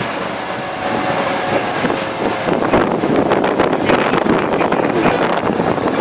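Steady rumble of vehicle engines with wind buffeting the microphone; from about two and a half seconds in, a rapid crackle of sharp clicks rides over it.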